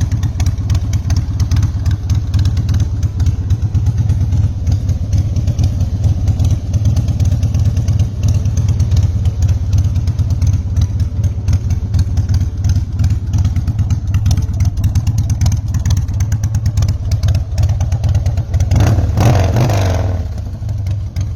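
Harley-Davidson Heritage Softail's V-twin engine idling with a steady, lumpy pulse, blipped once near the end in a short rev.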